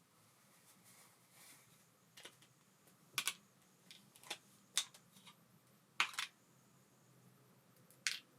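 Small hard parts and tools clicking and tapping on a workbench while a baitcasting reel is worked on: about half a dozen sharp, separate clicks at irregular intervals.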